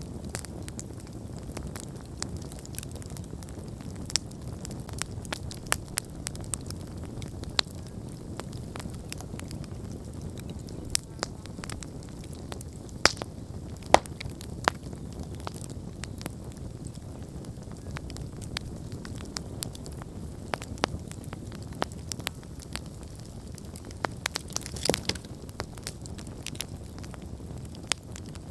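Wood campfire burning: a steady low rumble of the flames with irregular sharp crackles and pops, a few louder pops in the middle and a quick cluster of them near the end.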